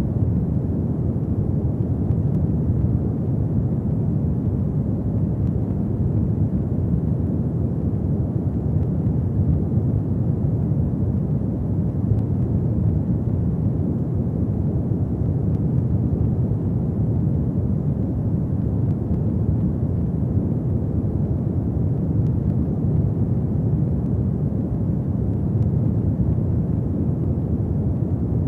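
Fireplace fire burning with a steady low rumble and a few faint crackles.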